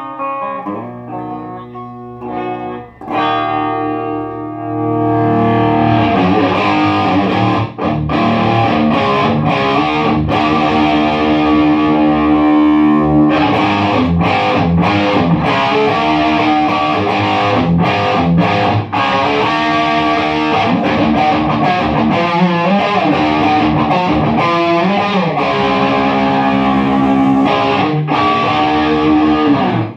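Electric guitar played through a Marshall MG15 solid-state amp into a 4x12 cabinet, on the drive channel with little gain: a crunchy distorted tone. Lighter single notes at first, then full, loud chords and riffs from about five seconds in, stopping abruptly near the end.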